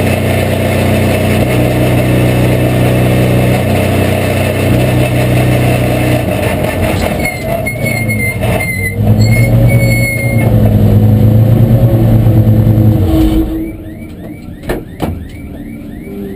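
Porsche 911 Cup race car's flat-six engine heard from inside the cockpit, running steadily at low revs as the car rolls slowly down the pit lane. It is shut off about 13 seconds in, leaving a couple of sharp clicks.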